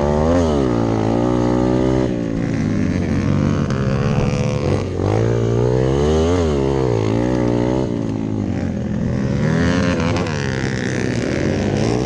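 Single-cylinder dirt-bike engine of a rally-built Hero Impulse under hard riding, revving up and dropping back in pitch several times as the throttle is worked.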